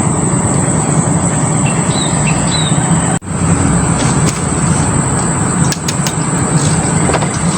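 Steady loud outdoor background noise with a steady high hiss, and a couple of short bird chirps about two seconds in.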